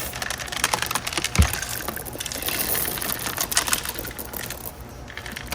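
Leftover corn seed rattling in a John Deere planter's seed meter housing as it is shaken out, a quick irregular clatter of kernels that thins out near the end, with one sharp thump about a second and a half in.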